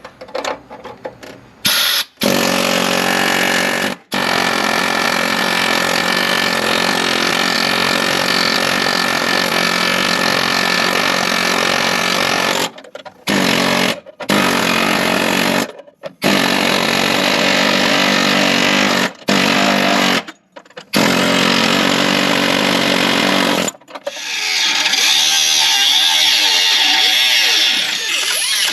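Electric grinder with a cut-off wheel cutting into the steel of a car's front frame strap. It runs in long stretches and stops briefly about eight times.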